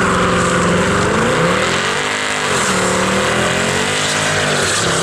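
Straight-piped Nissan GT-R R35's twin-turbo V6 running loud under throttle, its pitch climbing over the first second and a half and then rising and falling twice.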